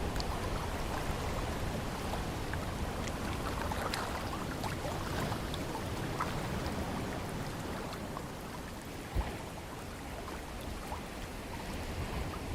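Seaside ambience of wind and ocean water: a steady wash of noise over a low rumble, with scattered small ticks and a single low thump about nine seconds in.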